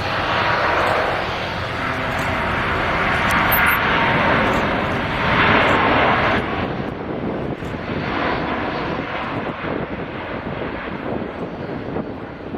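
Airbus A350 jet, its Rolls-Royce Trent XWB engines making a loud, steady noise that swells and fades several times, loudest about two thirds of the way through before easing off.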